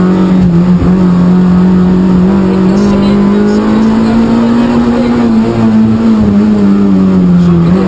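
Peugeot 106 rally car's engine under hard acceleration, heard from inside the cabin. The revs climb slowly for about five seconds, ease off, then climb again near the end.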